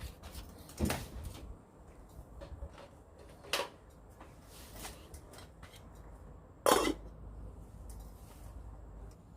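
Camp cookware being handled: three sharp knocks, about a second in, at three and a half seconds and near seven seconds, with lighter clicks and clinks between them.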